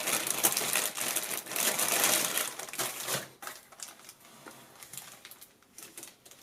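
Lots of small plastic pegboard letters clattering and clicking against each other. The clicking is dense for about three seconds, then thins to scattered clicks.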